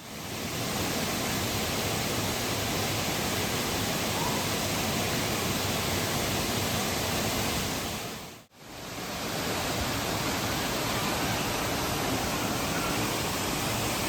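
Steady rush of flowing water, dropping out briefly about eight and a half seconds in before resuming.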